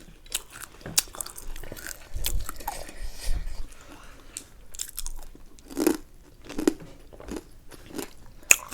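A person biting and chewing a crunchy snack close to the microphone: a run of irregular crunches.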